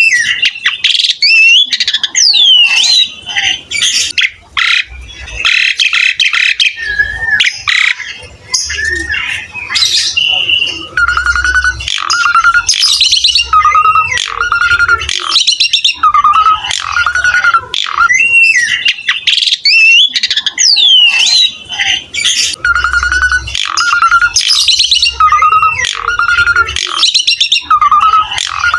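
Asian pied starling (jalak suren) singing loudly and continuously: harsh chattering and squawky notes mixed with sweeping whistles. Twice, a run of repeated whistled notes on a lower pitch goes on for several seconds.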